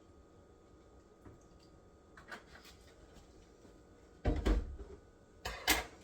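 Kitchen handling noises: a few faint ticks, then two short, loud clunks, one just past four seconds in and a quick double one about a second later.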